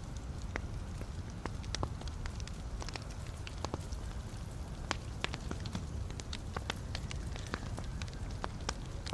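Wood fire burning in a fireplace, with a steady low rumble of flame and frequent irregular crackles and pops from the burning logs.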